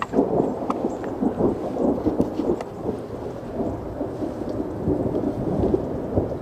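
Thunder rumbling and crackling in a long, irregular roll.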